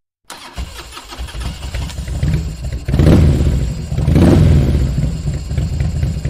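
Motorcycle engine running at idle, revved twice in the middle.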